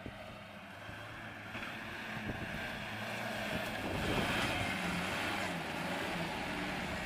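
Lifted Nissan 4x4's engine working under load as it climbs a soft sand dune. The engine gets louder over the first few seconds and then holds steady, with wind noise on the microphone.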